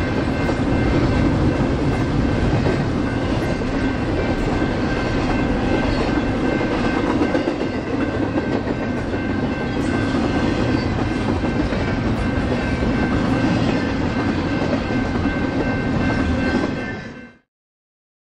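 Union Pacific double-stack container freight train rolling past: a steady rumble with the clickety-clack of wheels on the rail, and faint steady high-pitched tones over it. The sound cuts off abruptly about 17 seconds in.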